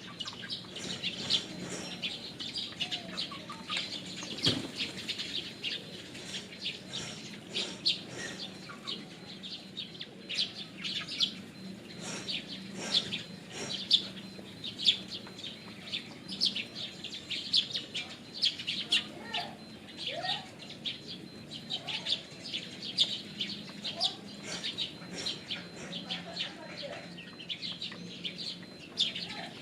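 Pigeons: wings flapping amid a steady stream of short, high chirps several times a second, with a few lower gliding calls, over a faint steady low hum.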